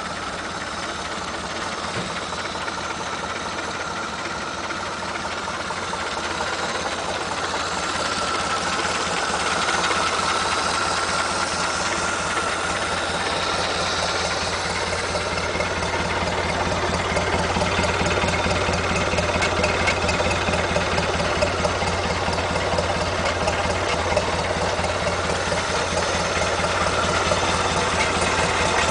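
GAZ-AA four-cylinder side-valve engine running steadily through a muffler, growing somewhat louder over the first ten seconds.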